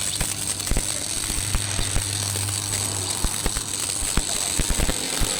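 Irregular sharp knocks and clicks, over a steady low hum that stops about three seconds in.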